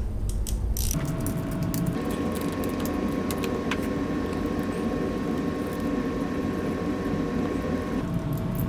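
A small motor running steadily for about seven seconds, starting about a second in and stopping near the end.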